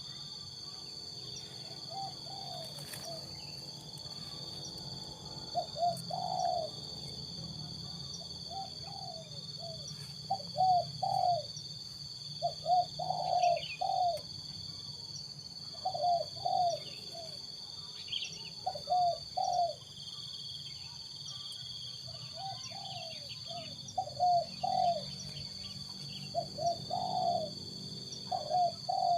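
Spotted dove (tekukur) cooing over and over: short phrases of two to four low coos, one every two to three seconds.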